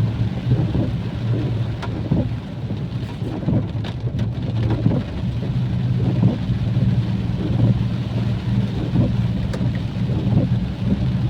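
Heavy rain pouring down without a break, over a steady low rumble.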